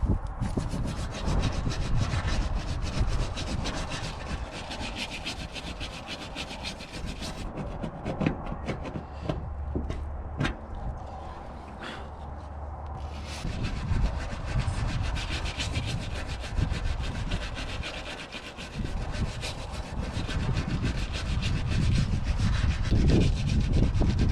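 Rapid back-and-forth abrasive strokes by hand on the van's rusted steel body, scraping and sanding the panel to prepare it for body filler. The strokes pause for several seconds midway, with a few knocks, then resume.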